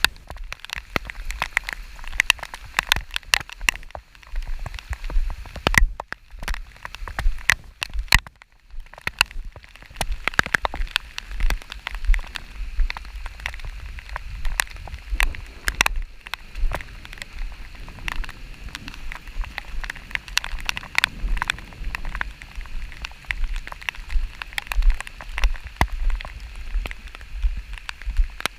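Rain falling, with many irregular close drop impacts ticking over a steady hiss and a low rumble underneath.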